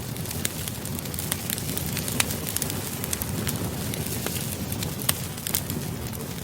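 Campfire burning: a steady low rush of flames with frequent sharp crackles and pops of burning wood at irregular intervals.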